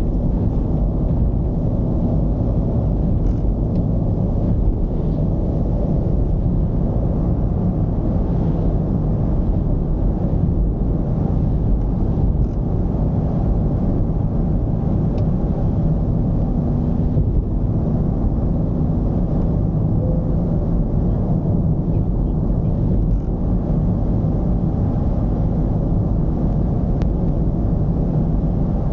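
Mercedes-Benz V220's diesel engine and road noise while driving: a steady low rumble with an even engine drone.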